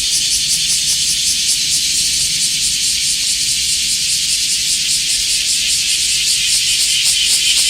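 Cicada singing: a loud, steady, high-pitched buzz that breaks into rapid pulses near the end.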